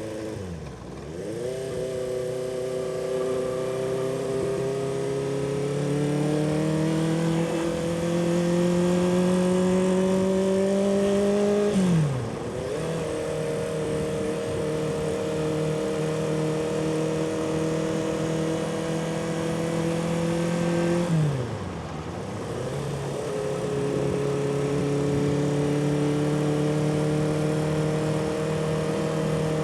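A 1976 Honda CB400F's air-cooled inline-four engine running under way, heard from the rider's position over a steady rush of wind. The revs climb slowly, drop sharply about twelve seconds in, then drop steeply again about twenty-one seconds in and pick back up.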